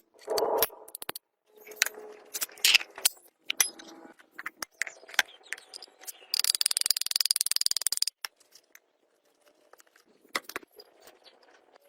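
Small metal parts clinking and rattling during hand work on plow parts, with scattered sharp clicks. About six seconds in comes a dense burst of rapid scraping lasting about two seconds.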